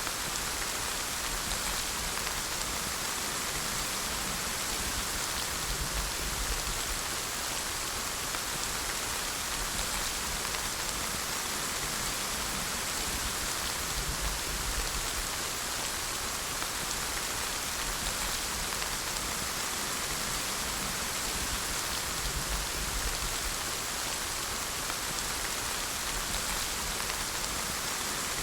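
Steady rain falling, an even hiss of drops on a surface without pause.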